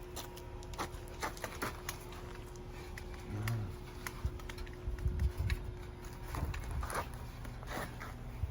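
Irregular light clicks and knocks of handling, with a brief cluster of low thumps about five seconds in, as people fumble at a 1948 Chevy truck's hood latch.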